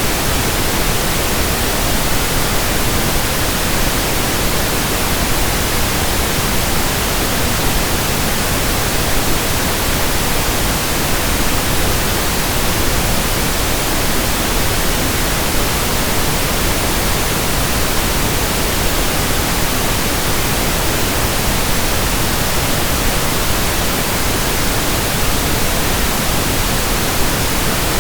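Steady, unchanging pink noise: an even hiss spread across all pitches with no events or variation.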